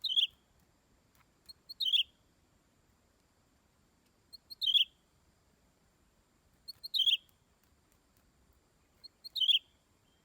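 Green leafbird (cucak ijo) used as a decoy bird, giving a short, sharp call five times at regular intervals of about two and a half seconds. Each call opens with a brief high note and drops into a stronger, slightly falling note.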